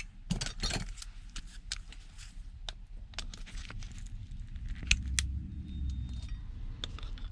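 Small metal parts clicking and clinking as they are handled and pulled out by hand, in irregular scattered clicks over a low steady hum.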